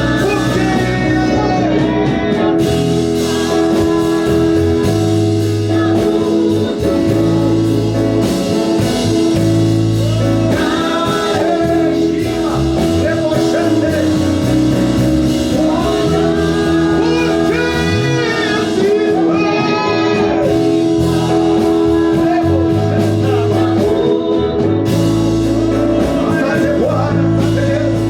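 Gospel praise-and-worship song: voices singing over a band, with held chords and a steady bass line.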